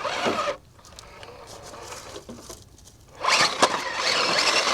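Mini RC crawler's electric motor and gearbox whirring under load as it climbs, tyres scrabbling and scraping on rock, loud for about two seconds starting about three seconds in, after a quieter stretch.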